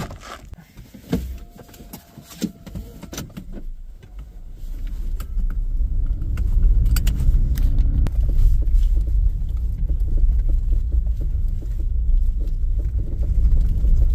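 A few clicks and knocks, then a car moves off: its engine rises in pitch as it accelerates and settles into a loud, steady low rumble of engine and road noise.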